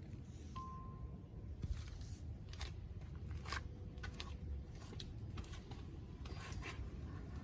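Scattered light clicks and scrapes of handling over a low steady rumble, with a short steady beep about half a second in.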